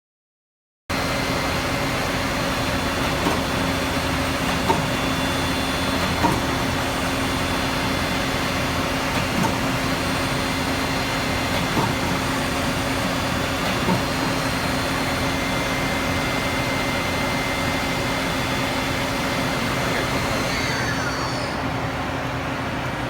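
Mazak QT20 CNC lathe running under power: a steady mechanical hum and whine with light ticks every couple of seconds. It starts about a second in, and near the end a whine falls in pitch.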